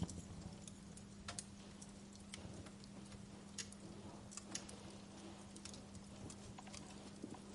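Wood fire crackling in a fireplace: irregular sharp pops and snaps, a few a second, over a low rumble of the burning, with a steady low hum underneath.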